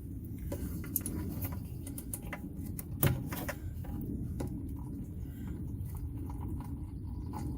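Irregular light clicks and knocks from hands working a drain hose onto the washer-fluid reservoir, with one sharper knock about three seconds in, over a steady low rumble.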